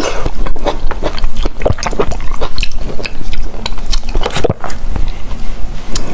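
Close-miked wet chewing and lip-smacking of soft mangosteen fruit, a steady run of short clicks and squelches.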